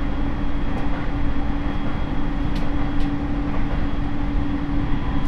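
Interior running sound of a Rinkai Line 70-000 series electric train, the refurbished type with a Mitsubishi IGBT inverter and MT73 traction motors, at a steady speed. The wheels rumble on the rails under one constant hum that neither rises nor falls, with a few faint clicks.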